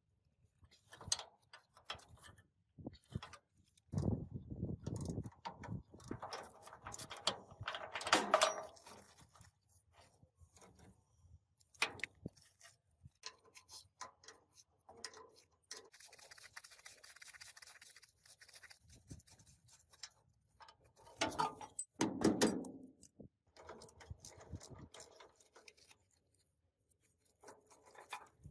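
Scattered knocks, clicks and scraping from objects being handled, louder in stretches about four to eight seconds in and again around twenty-two seconds in.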